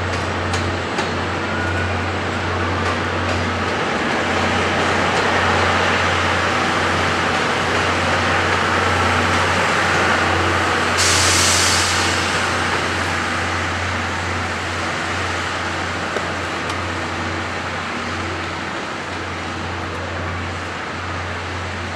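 A steam-hauled train of 12-series passenger coaches rolling out of the station, a steady rumble of wheels on rails that swells toward the middle. A short sharp hiss comes about eleven seconds in.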